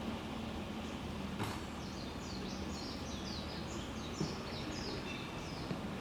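A bird singing a quick run of short, high chirps over steady outdoor background noise, with a single sharp click about a second and a half in.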